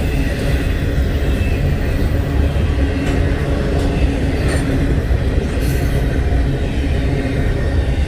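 CN double-stack intermodal freight train rolling past: a steady low rumble of the railcars, with a few brief high squeaks near the middle.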